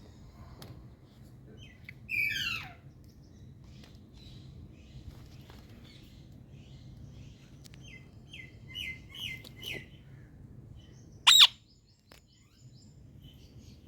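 Indian green parrot calling in separate bursts. There is a loud falling call about two seconds in, then a run of four short calls a few seconds later. A single very loud, sharp call near the end is the loudest sound.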